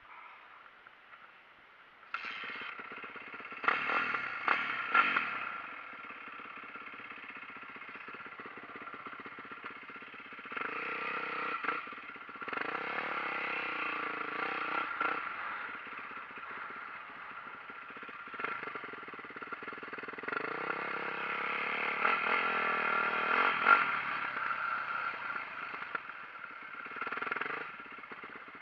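Four-stroke single-cylinder engine of a 2004 Yamaha YZ450F dirt bike starting about two seconds in. It is blipped sharply a few times, then runs with several longer revs that rise and fall back.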